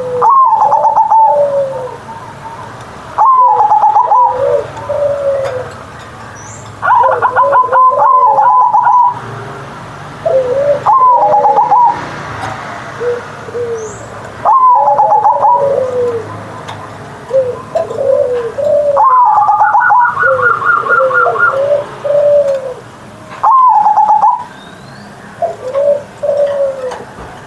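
Zebra dove (perkutut) singing its cooing song: about seven phrases, one every four seconds or so, each a rapid rattling trill followed by lower, falling coos.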